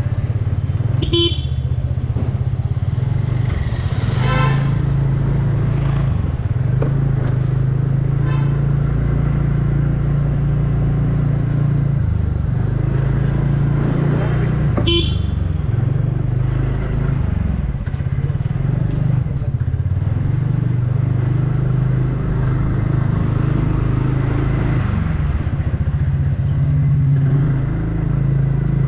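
Riding a TVS Ntorq 125 scooter, single-cylinder engine, through city traffic: steady engine and wind rumble that shifts as the pace changes. Short vehicle horn toots sound several times, the clearest near the start and about halfway through.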